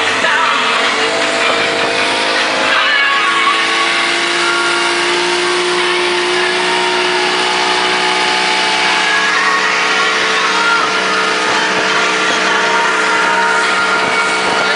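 Motorboat engine running hard at speed, a steady drone whose pitch drifts slowly up and down.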